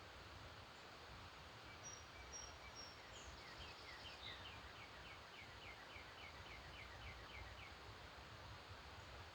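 Faint birdsong: a few thin high whistles and a short trill, then a bird repeating a short note about three times a second for some four seconds, over a steady low background hiss.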